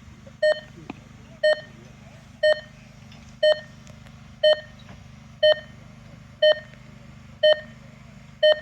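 Electronic race-timing beeper sounding short, identical beeps exactly once a second, typical of the countdown to the start of an RC race final.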